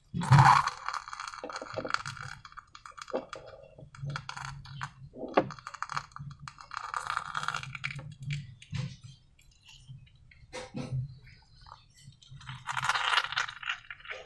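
Slime being worked by hand, with sticky crackles and squishes in bursts every second or two and a few sharp clicks between them. The loudest bursts come at the start and near the end, over a faint low hum.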